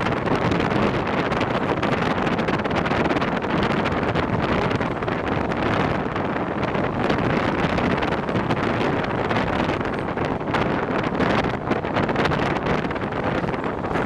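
Steady rush of wind on the microphone mixed with the running noise of a moving passenger train, heard from on board.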